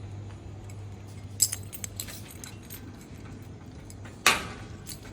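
A few light clicks and clinks, then one sharp knock with a short ring about four seconds in, over a steady low hum.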